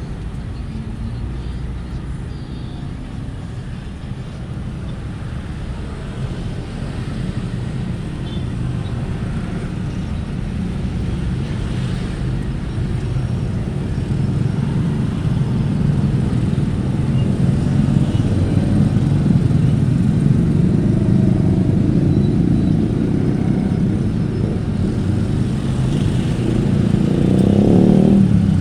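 Steady low rumble of road traffic with motorcycles, growing louder over the second half, and one vehicle passing close near the end.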